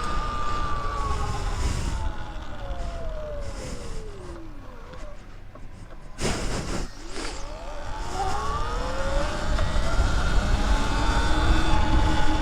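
Sur-Ron Light Bee X electric dirt bike's motor whine falling steadily in pitch as the bike slows, then rising again as it accelerates, with a short rush of noise in between. A low wind rumble on the microphone runs underneath.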